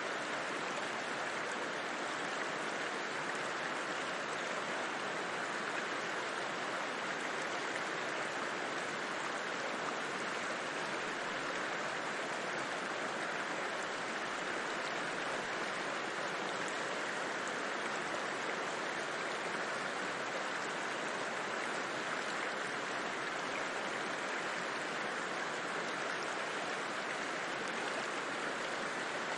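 River water rushing and splashing over rocks: a steady, even rush with no breaks.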